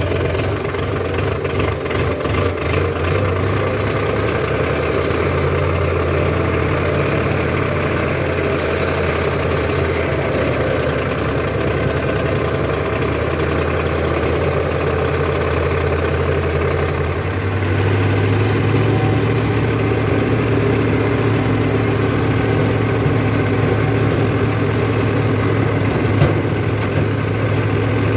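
Diesel engine of a backhoe loader or tractor running steadily, with a low, even hum; its note shifts slightly higher and becomes a little louder about two-thirds of the way through.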